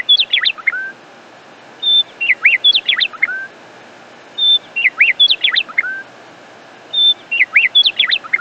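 Birdsong: the same short phrase of a brief whistle, quick chirps and a final upslurred note repeats about every two and a half seconds, four times over.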